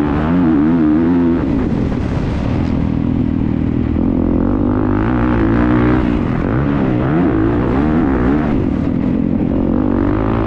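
Motocross bike engine heard close from an onboard camera, revving up and falling back over and over as the throttle is worked through the track, with wind noise.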